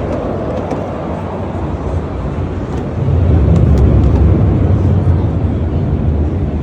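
Jet aircraft engine rumble, deep and loud, swelling louder about three seconds in.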